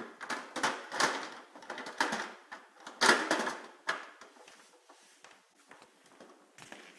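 Plastic toy garbage trucks being handled and set down: a run of sharp clicks and clacks, the loudest about three seconds in, thinning to faint taps after about four seconds.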